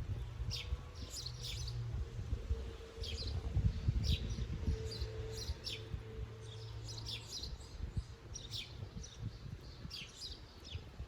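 Small birds singing: many short, high chirps and twitters in quick runs throughout, over a low rumble and a faint steady hum.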